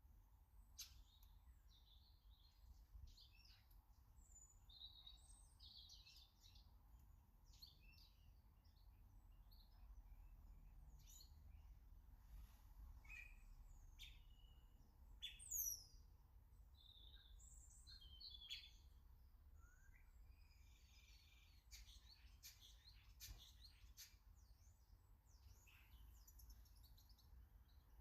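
Small garden birds chirping faintly, with many short scattered calls and one louder falling whistle about halfway through.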